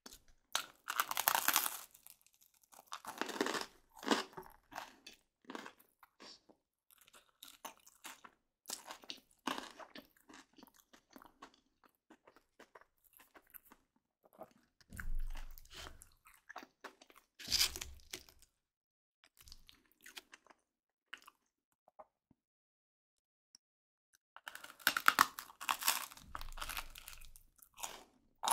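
Close-miked crunching and chewing of crispy baked garlic baguette, in separate bites and bursts of crunch with quieter chewing between. A few low bumps come in the middle.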